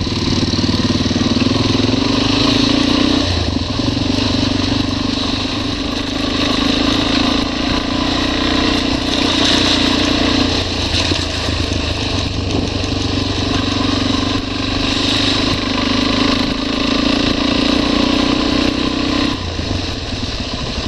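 Adventure motorcycle engine running under way, its note shifting a few times as the throttle changes, over a steady rushing noise.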